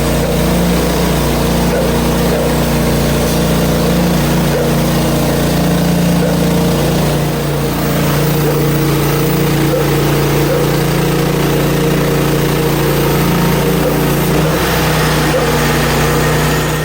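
Gas engine of a Hud-Son portable band sawmill running steadily under load, with the band blade sawing through a dry maple log.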